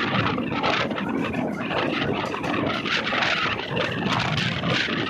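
Steady noise of a passenger train heard from on board, with fine rattling through it.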